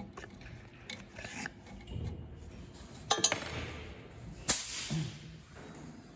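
A few sharp clicks and clinks, as of small hard parts being handled at a workbench. There is a quick cluster about three seconds in, and the loudest, ringing click comes about four and a half seconds in.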